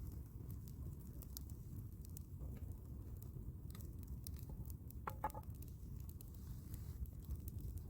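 Campfire crackling: scattered sharp snaps and pops over a low, steady rumble, with a brief louder hiss-like squeal about five seconds in.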